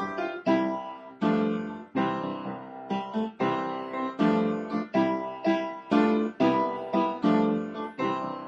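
Piano playing a steady run of struck chords, about two a second, each one dying away before the next.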